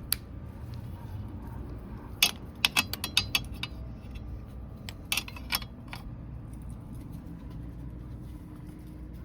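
Light metallic clicks and clinks of hand tools at work on a dirt bike's spark plug. They come in two clusters, a rapid run about two seconds in and a shorter one about five seconds in, over a steady low hum.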